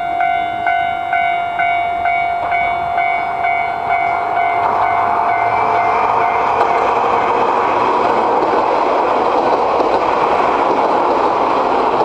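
Japanese level crossing warning bell ringing about twice a second, then a Nagano Electric Railway train passing over the crossing from about four seconds in. The wheels-on-rail rumble swells and drowns out the bell.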